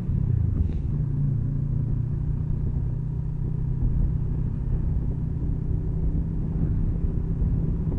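Motorcycle engine running steadily at low revs in a low gear as the bike rolls slowly through a bend, with road and wind rumble underneath.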